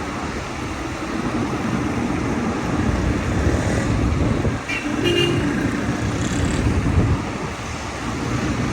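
Car driving with steady road and engine rumble, and other traffic. A few brief high-pitched tones sound about five seconds in.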